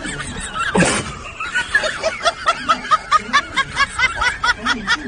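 A person laughing in quick, high-pitched, rhythmic bursts, about four or five a second. There is a sharp burst of noise about a second in.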